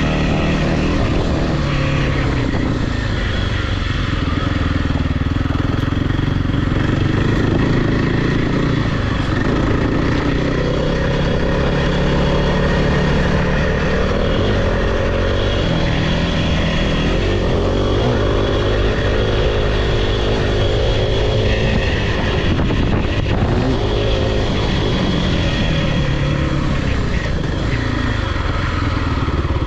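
Off-road vehicle engine running loud as it is ridden, revving up and down so its pitch repeatedly rises and falls.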